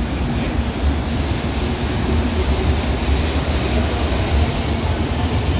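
Shinkansen bullet train running along the platform close by: a steady rush of air and rolling noise over a low rumble, growing slightly louder toward the end.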